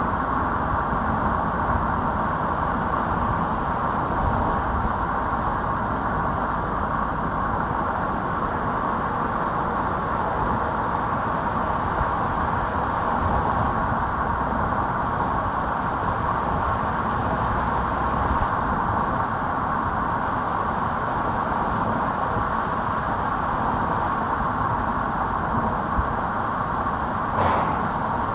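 A car driving at steady speed: continuous tyre and engine noise, with one short click near the end.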